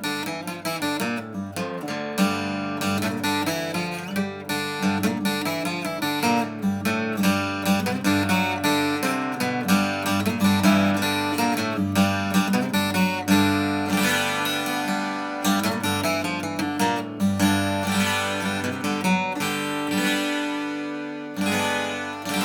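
Vintage Japanese acoustic guitar being played: a continuous run of picked notes and strummed chords, ringing on between strokes.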